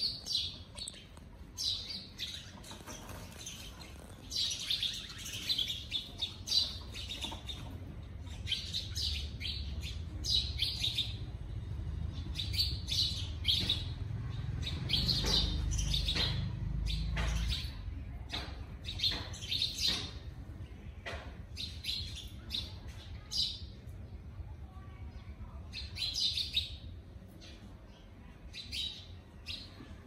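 Small perching birds chirping over and over in short, high calls, with a low background rumble that swells from about ten to eighteen seconds in.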